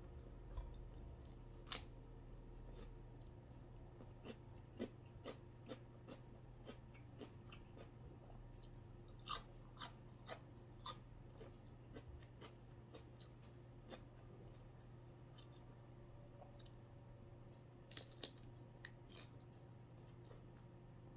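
Quiet chewing and eating sounds from a mukbang meal, with irregular soft clicks and crunches, over a faint steady low hum.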